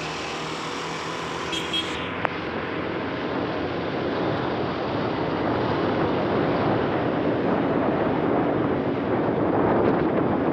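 Road vehicle engine and road noise, steady and gradually building louder over the last few seconds.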